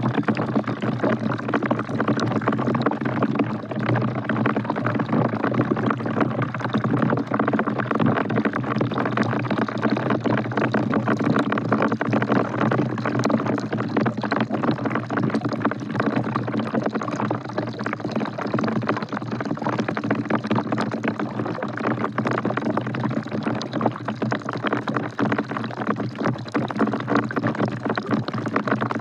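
Steady rain falling into a bucket: a dense, continuous patter of drops.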